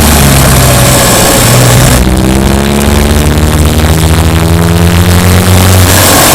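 Subaru Impreza Sport's boxer four-cylinder engine running as the car drives. From about two seconds in, the hiss drops away and the engine note climbs steadily as the revs rise. Near the end the hiss returns.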